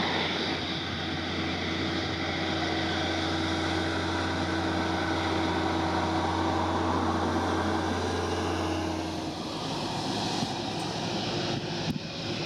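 Airbus A330neo's Rolls-Royce Trent 7000 turbofan engines at takeoff: a steady jet rumble with a constant low hum. The hum stops abruptly about nine seconds in, leaving a fainter broad rush.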